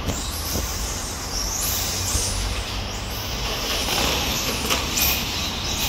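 Electric RC cars with 10.5-turn brushless motors running on a track, their motors whining in high pitch that rises and falls as they accelerate, brake and pass, over a steady low rumble.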